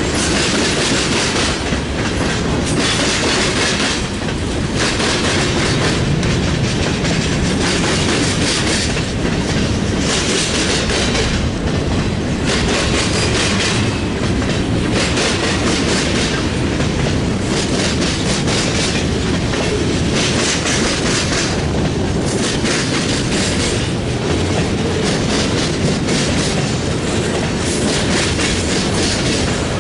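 CSX freight train rolling past close by, its steel wheels clacking on the rails over and over amid a steady rumble.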